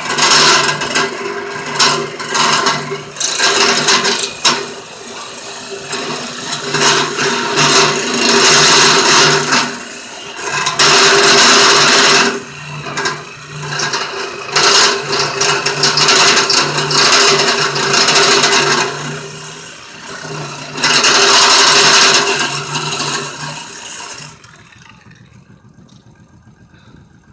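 Reciprocating saw (Sawzall) cutting through the metal frame of a car dolly trailer: the blade rasps loudly in repeated spells over the motor's steady hum. The saw stops about 24 seconds in.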